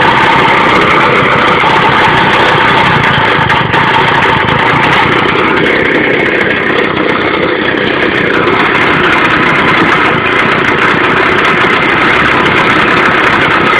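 160cc Victa two-stroke lawnmower engine on a homemade go-kart, running at a fast idle.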